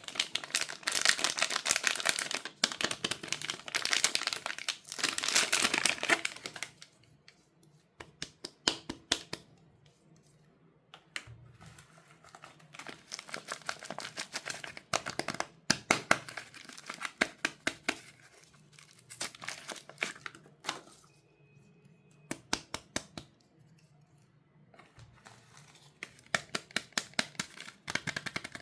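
Soap wrappers being opened by hand, crinkling and tearing. The crinkling is dense and loudest for the first six seconds or so, then comes in shorter bouts with sharp crackles and quieter pauses between them.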